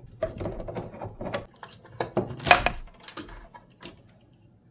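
Irregular clicks, taps and knocks of hand tools and small metal parts being worked while the outlet fitting of a tankless water heater's gas valve is loosened, the loudest knock about two and a half seconds in.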